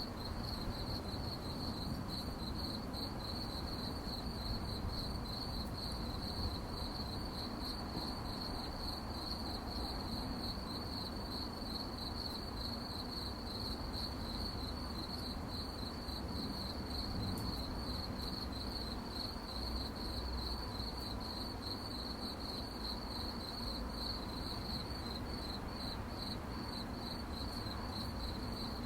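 Crickets chirping: a steady, high, finely pulsing trill that keeps on without a break, over a faint low rumble.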